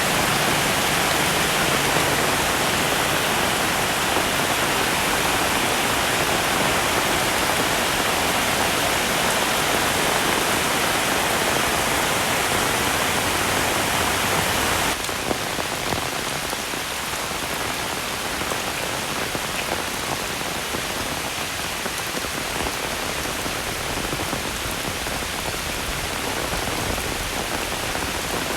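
Heavy rain falling steadily in a dense hiss. About halfway through, the sound drops abruptly to a quieter level and then holds steady.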